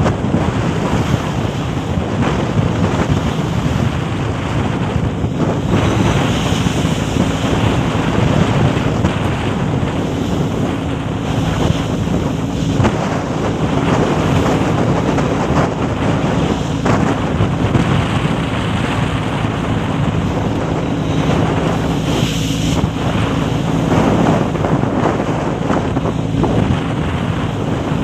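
A small boat's engine running steadily while under way, with wind buffeting the microphone and water rushing past the hull.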